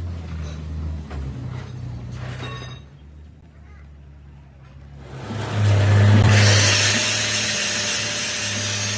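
Low workshop machine hum with a few knocks, then a power tool starting about five seconds in and running steadily and loudly.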